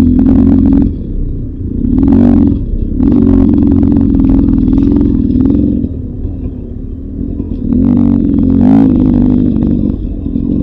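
Beta 300 RR Racing two-stroke dirt bike engine, ridden off-road in repeated bursts of throttle; the revs rise and drop off several times, with some clatter between the bursts.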